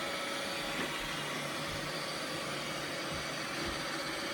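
Several Roomba robot vacuums running together: a steady whir of motors and brushes with a few faint, steady high-pitched hums.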